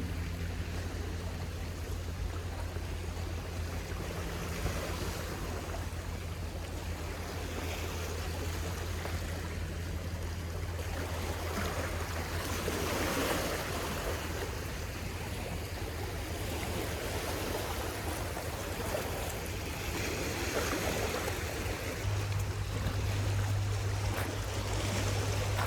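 Waves breaking on a shore, a rushing wash that swells and eases every several seconds. A steady low hum runs underneath.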